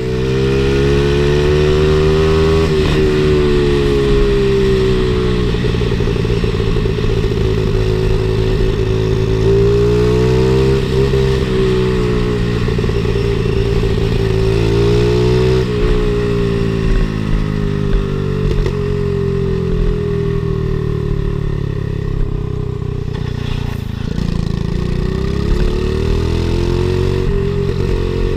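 Pit bike's small single-cylinder engine running under load while being ridden, its pitch rising and falling again and again as the throttle is opened and eased off.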